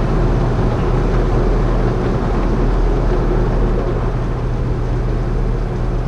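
Steady noise of an automatic car wash tunnel heard from inside the car's cabin: equipment and spray running, over a low steady drone and a thin steady tone.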